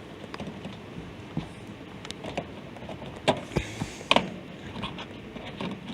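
Small clicks, taps and rustles of hands and tools working wires onto an air-conditioner contactor's terminals, with two sharper knocks about three and four seconds in.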